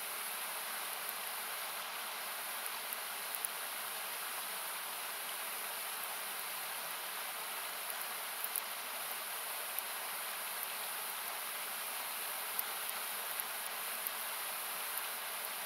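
Steady rushing of a river, thin and hiss-like, with occasional sharp crackles and pops from a wood campfire scattered through it.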